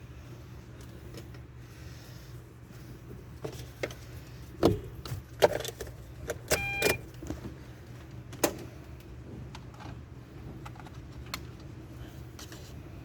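Several sharp metallic clinks and knocks of parts or tools being handled, clustered in the middle, one with a brief squeak. A steady low hum runs underneath.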